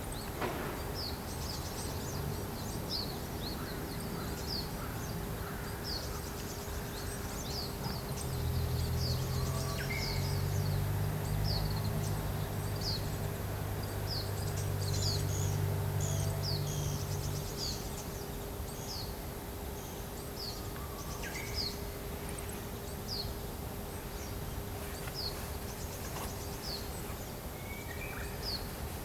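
Thin, high bird calls, short downward-sliding notes repeated about once a second, over steady outdoor background noise. A low hum swells from about eight seconds in and fades out near eighteen seconds.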